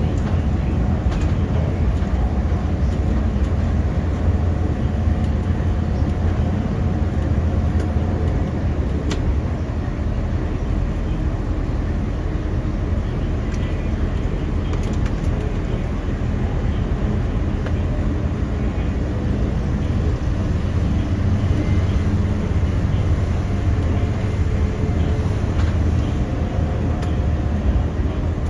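Steady running noise inside the cab of a moving track inspection vehicle: a continuous low rumble of wheels on rail and running gear, with a few faint clicks.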